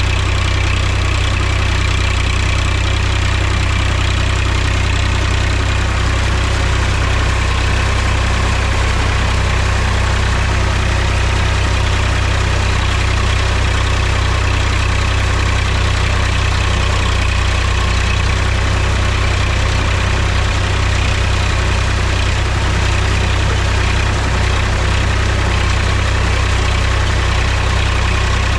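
Mahindra tractor's diesel engine running steadily at an even speed, a constant low drone.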